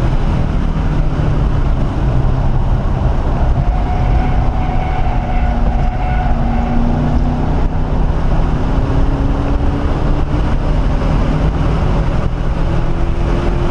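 1997 SVT Cobra Mustang's 4.6-litre DOHC V8 pulling hard under acceleration, heard from inside the cabin. The engine note climbs slowly, breaks off and picks up again higher a couple of times, under loud steady road and wind noise.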